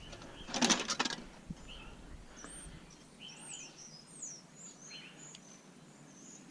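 Small birds chirping faintly, a series of short high calls. A brief rattling noise comes about half a second in.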